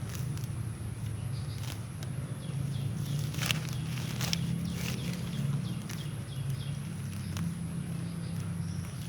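Outdoor rustling with a few sharp clicks, the loudest cluster about three to five seconds in, over a steady high-pitched insect drone and short repeated chirps.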